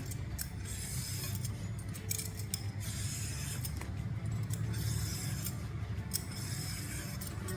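Kitchen peeling tool scraped along a cucumber's skin in repeated strokes, about one or two a second, stripping off the peel.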